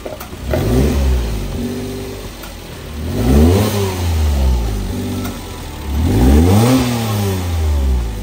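Daihatsu Hijet Jumbo kei truck's engine revved three times through an aftermarket side-exit muffler, each rev rising quickly and falling back to idle.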